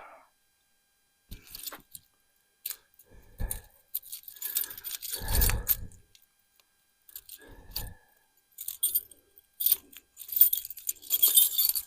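Metal tools and hardware clinking and clattering as they are handled and moved between toolboxes, in scattered bursts, with a louder knock about five seconds in.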